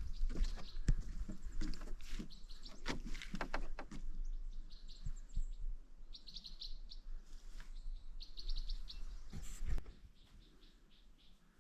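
A small songbird singing short, fast, high trills several times, with knocks and rustling in the first few seconds and once more near the end.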